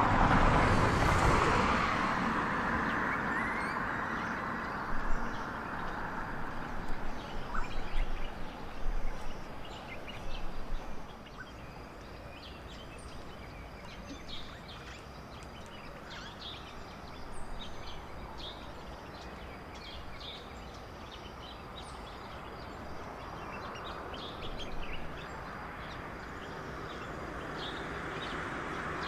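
Birds giving many short, high calls over steady outdoor background noise, busiest in the first half, after a loud rush of noise at the very start.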